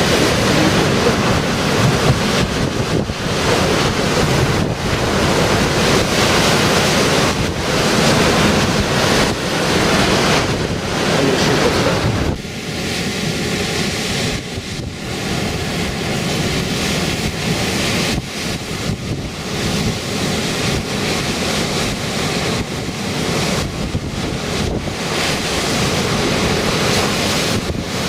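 Storm waves surging and breaking on the shore, with strong wind buffeting the microphone. About twelve seconds in, the sound shifts and a few faint steady tones appear under the surf.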